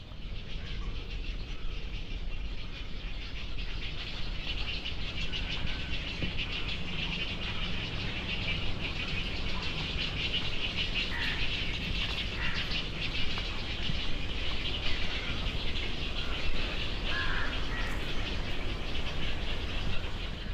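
Birds chirping in a steady, high-pitched chorus, with a few louder single chirps standing out now and then.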